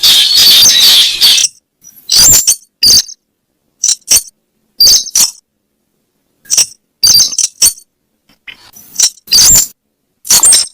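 Recorded weris bird calls played as a lure: short, sharp, high-pitched notes, some single and some in quick runs of two or three, separated by silent gaps of up to about a second and a half. The playback is loud and harsh.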